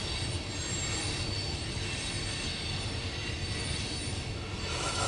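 Loaded coal train's hopper cars rolling steadily past: a continuous low rumble with thin high-pitched wheel squeal over it, heard from inside a car.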